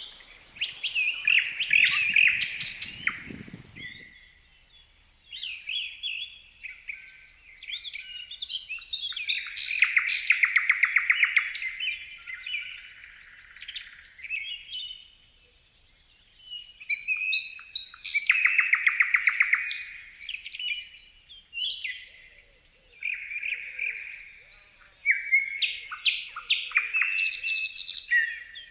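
Several songbirds chirping and singing, with short whistled phrases and two loud, rapid trills of about two seconds each, one about ten seconds in and another near the middle. A low rumble underlies the first few seconds, then stops abruptly.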